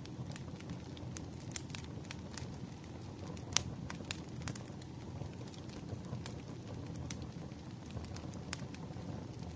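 Wood fire burning with a low steady rumble and frequent irregular crackles and pops, one sharper pop about three and a half seconds in.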